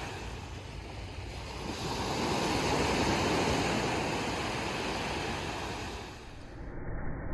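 Ocean surf washing onto a beach: a steady rush of breaking waves that swells a couple of seconds in and then eases. Near the end it gives way to a duller, muffled noise.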